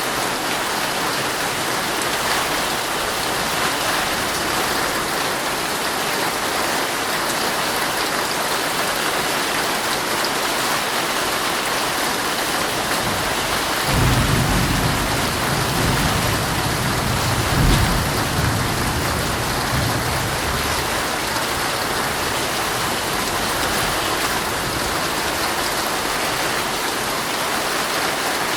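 Heavy rain drumming steadily on a tent. About halfway through, a low rumble of thunder rolls in suddenly, swells and dies away over about six seconds.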